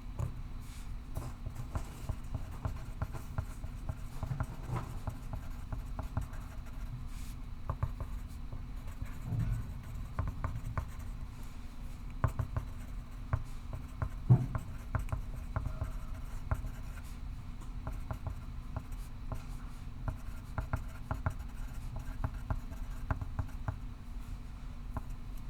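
Pencil writing on paper, short scratching strokes and light ticks going on and off throughout, over a steady low room hum. One louder knock about 14 seconds in, like the pencil or a hand tapping the desk.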